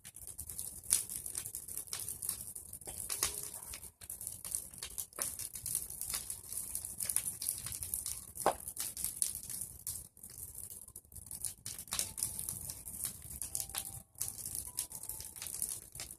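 Bonfire of pruned tree branches burning, crackling and popping irregularly over a steady hiss.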